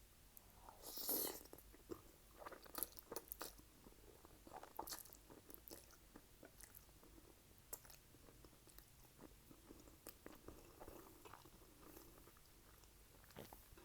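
Close-miked eating: a crunchy bite into toasted garlic bread about a second in, followed by chewing with scattered wet mouth clicks.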